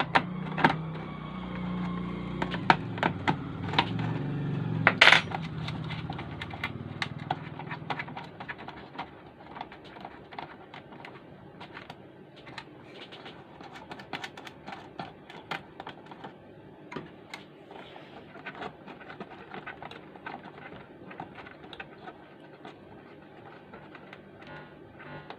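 Scattered small clicks and taps from work on an amplifier circuit board, with a low hum for roughly the first eight seconds that then fades; one louder click comes about five seconds in.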